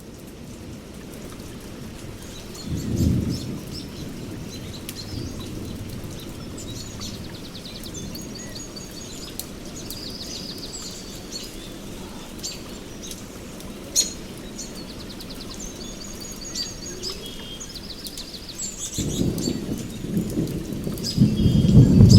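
Songbirds chirping and trilling over steady rain. A short low rumble of thunder comes about three seconds in, and a longer, louder roll builds near the end.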